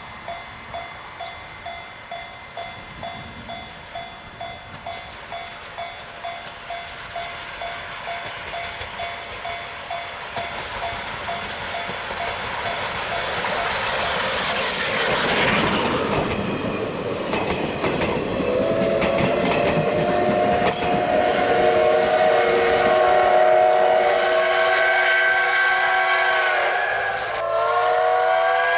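C12 66 steam locomotive drawing nearer, with even beats about two a second that quicken and blur together as it gets louder, and a burst of hissing partway through. From about two-thirds of the way in, its steam whistle blows a long, several-toned blast that dips briefly near the end and sounds again.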